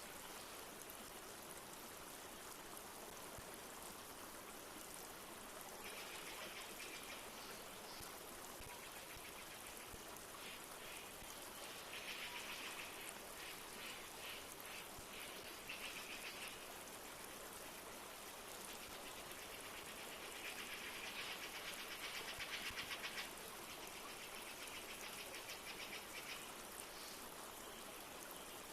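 A river flowing steadily, a constant rush of water. Several times, high rapid trilling calls come in for a few seconds each over the water.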